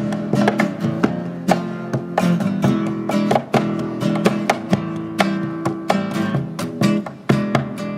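Music: an acoustic guitar strummed in a brisk, even rhythm with sharp accents, an instrumental passage without singing.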